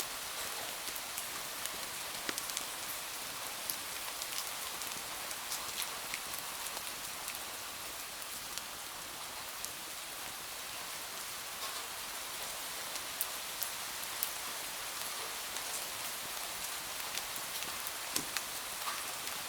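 Steady rain, an even hiss with many small sharp ticks scattered through it.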